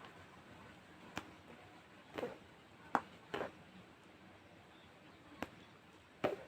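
Irregular light clicks and knocks, about six in all, spread out with quiet in between.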